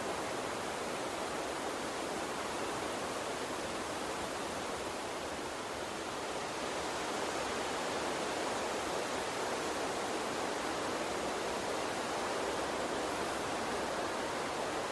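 Gentle water stream flowing steadily, an even rushing hiss that dips slightly in level about five seconds in.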